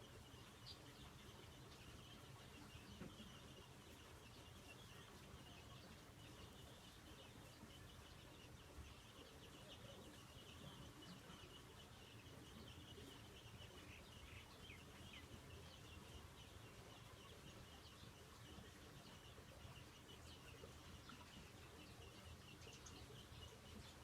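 Faint birds chirping: many short calls, thickest in the middle of the stretch, over a steady low background rumble.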